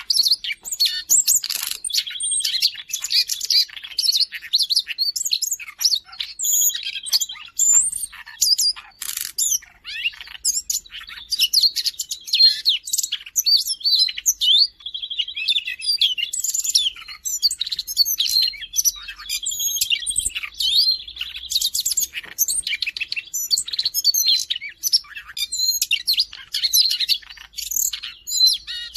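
Siberian rubythroat singing without pause: a fast, varied warble of high chirps, whistles and slurred notes, broken every few seconds by a longer buzzy trill.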